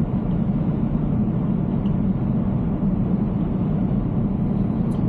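Steady low road and tyre noise of an electric Tesla Cybertruck cruising, heard from inside the cabin, with no engine sound.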